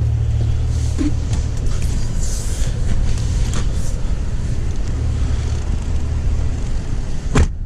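Chevrolet Tahoe engine idling with a steady low drone, heard from outside the SUV. Near the end a door shuts with one sharp thump, and the engine becomes quieter.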